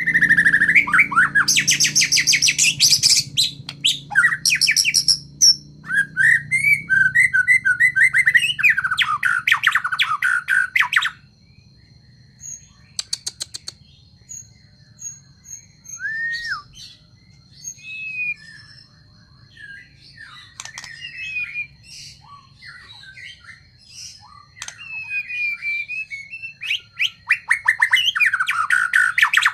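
Songbird singing loud, fast, rapidly varied song phrases for the first ten seconds or so, then only scattered quieter chirps and short calls, before the loud song starts again near the end.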